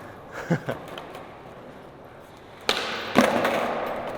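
Skateboard trick attempt on flat ground. A few soft knocks come early, then a sharp pop of the tail about two and a half seconds in, and the board slaps back down about half a second later. The wheels then roll on the ground.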